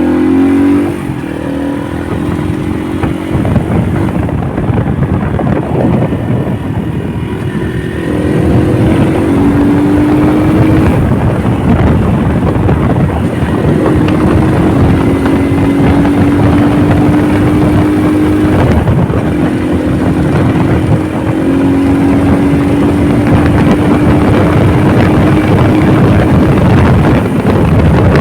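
Honda motorcycle engine running under way, its pitch climbing, dropping at a gear change and then holding steady before climbing again. Heavy wind rushes over the microphone throughout.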